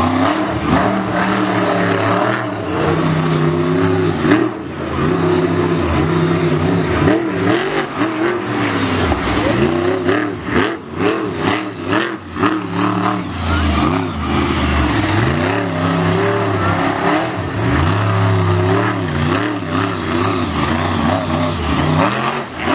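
A monster truck's big engine revving hard, its pitch surging up and dropping back again and again. Several sharp bangs come in a cluster midway through.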